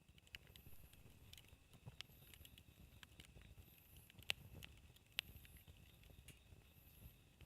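Wood campfire crackling faintly, with scattered small clicks and two sharper pops about four and five seconds in.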